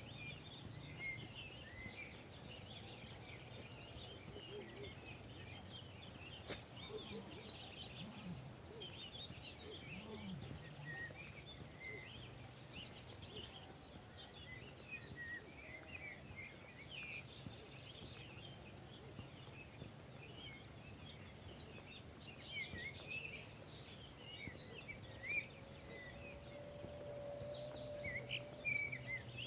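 Faint chorus of small songbirds chirping and twittering continuously over a low steady hum, with a drawn-out faint tone near the end.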